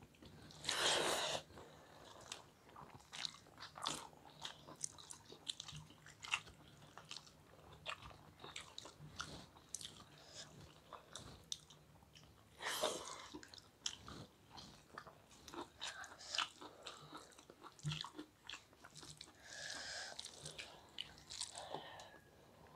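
Close-miked chewing and wet mouth clicks of people eating rice and curry with their hands, with a few longer, louder noises among the small clicks.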